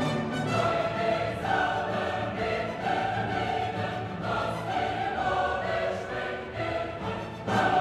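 A choir singing held notes that shift pitch about once a second, with a fresh loud entry near the end.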